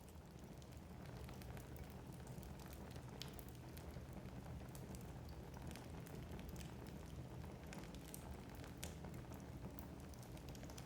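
Wood fire burning in a fireplace: a faint, steady low rumble of flames with frequent small, irregular crackles and pops from the logs.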